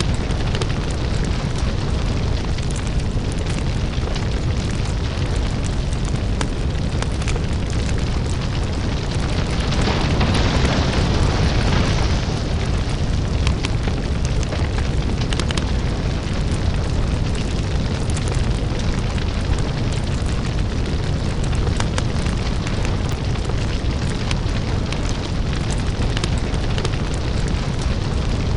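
Lava-fire ambience: a steady deep rumble with scattered crackles and pops. About ten seconds in, a louder hiss swells for a couple of seconds, then falls back.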